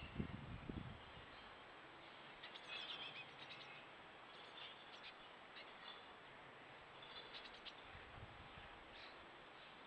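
Faint birdsong from small garden birds: scattered short chirps and trills over a steady outdoor hiss, with a brief low rumble in the first second.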